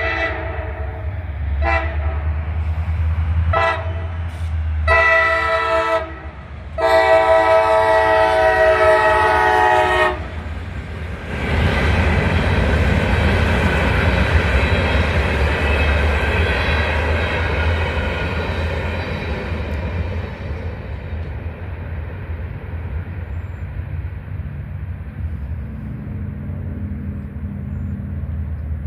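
A CSX EMD GP40-2 diesel locomotive sounds its horn in a series of blasts, a few short ones and then two longer ones, the last about three seconds long, over a steady diesel engine rumble. The locomotive and its train then pass close by with a loud rolling rumble that slowly fades.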